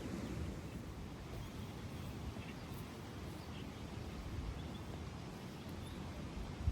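Outdoor ambience: a steady low rumble with a few faint, short bird chirps, and a single sharp knock at the very end.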